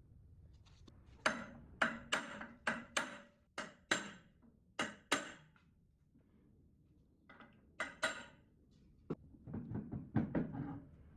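A series of sharp, hard knocks, about ten within four seconds, each ringing briefly. After a pause come two more knocks and a denser, duller clatter near the end.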